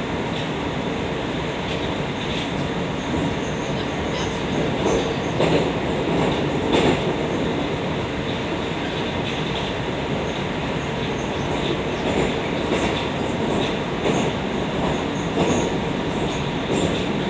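Moscow Metro "Oka" (81-760/761) train running between stations, heard from inside the car: a steady rumble of wheels on rail and running gear, with scattered clicks over rail joints and a faint steady whine.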